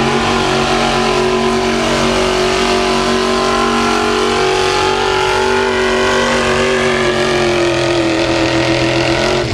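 A competing pulling truck's engine running hard at high, steady revs while it drags the weight sled. The pitch sags a little near the end, and the sound then cuts off abruptly.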